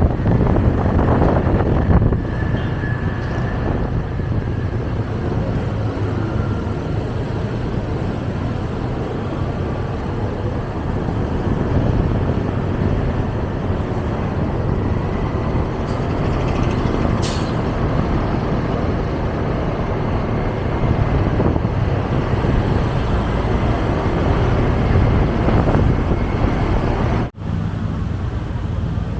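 Road traffic heard from a moving motorcycle: a steady engine and road rumble with trucks and buses around. There is a short high hiss about seventeen seconds in, and the sound breaks off for an instant near the end.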